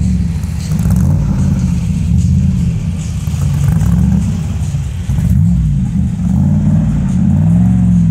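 LS7 7.0-litre V8 in a lightweight sports car running, its low pitch rising and falling several times with light throttle.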